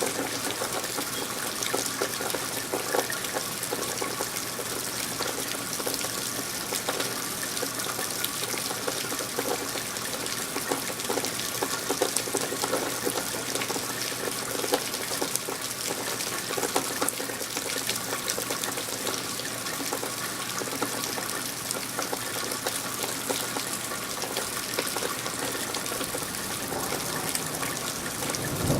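Steady rain falling: an even hiss of water with a dense patter of small drops.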